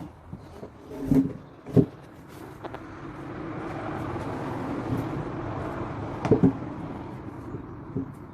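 A vehicle passing by, its sound swelling and fading in the middle, with a few sharp knocks: two near the start, a quick pair near the end of the swell, and a lighter one after it.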